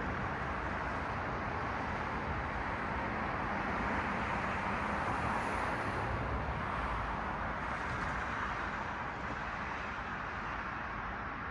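Road traffic: cars passing, a steady rush of tyre and engine noise that swells around the middle and eases off near the end.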